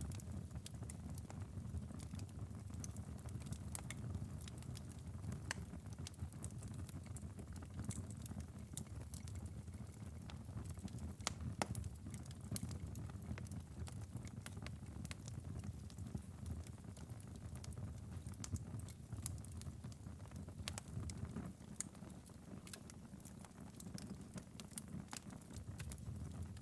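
Wood fire burning in a fireplace: a steady low rumble of flames with irregular crackles and pops.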